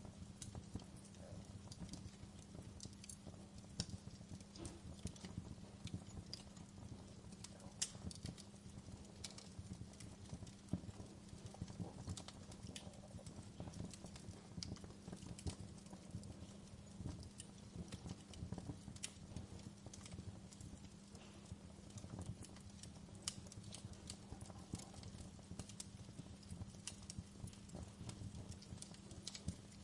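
Wood fire burning in a fireplace: irregular crackles and sharp pops from the burning wood over a low, steady rumble of the flames.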